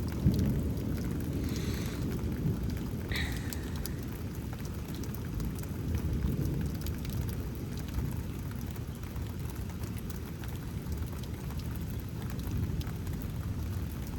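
Steady rain falling, with scattered drip ticks and a low, continuous rumble of thunder underneath.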